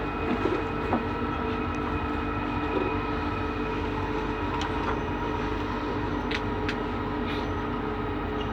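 Bombardier Innovia Metro 300 train running between stations, heard inside the car: a steady running hum with several held whining tones. A couple of light knocks come in the first second or so, and a few faint clicks follow later.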